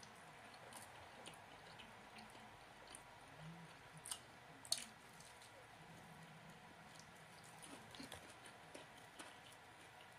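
Faint close-up chewing of soft cheese-filled bread, with small wet mouth clicks throughout and two sharper smacks about four seconds in.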